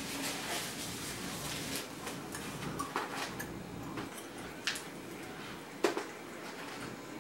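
Close-miked eating sounds: chewing and handling chicken wings, with three sharp clicks: one about three seconds in, then two more over the following three seconds.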